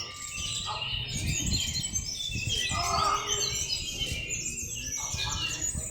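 Many caged songbirds singing at once in a bird-singing contest, a dense mix of overlapping fast chirps and trills.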